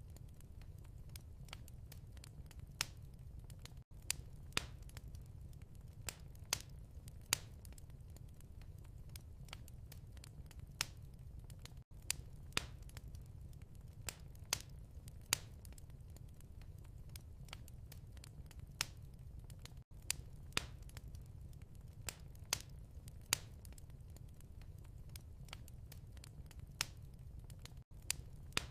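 Wood fire crackling and popping in a fireplace, with irregular sharp snaps over a steady low rumble. The sound briefly cuts out about every eight seconds.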